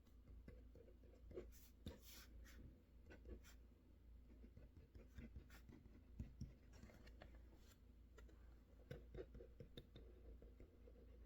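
Faint, irregular desk-work sounds: light taps and short scratchy strokes at an uneven pace, over a low steady hum.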